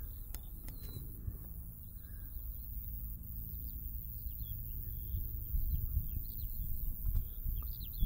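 Small birds chirping in short, high, repeated calls over a steady low rumble that grows louder in the second half.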